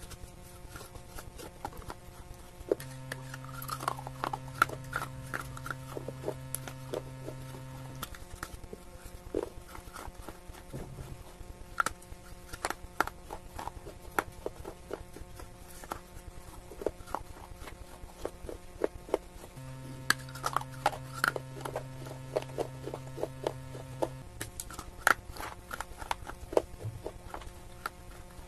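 Dry clay pieces being bitten and chewed: irregular, crisp crunches and crackles, several a second in places. Soft background music with long held chords runs underneath.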